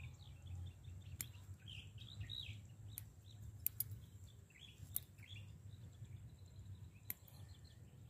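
Birds chirping in short, quick calls during the first five seconds or so, over a steady low rumble, with a few sharp clicks.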